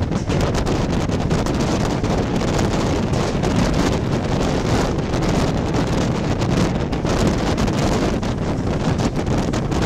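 Steady rushing rumble of a moving passenger train, recorded from on board, with wind buffeting the microphone.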